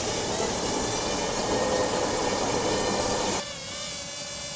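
Parrot Airborne Night minidrone's four small propellers whirring in flight, a steady buzz with a faint whine. About three and a half seconds in, the sound drops abruptly to a quieter, thinner buzz whose pitch wavers.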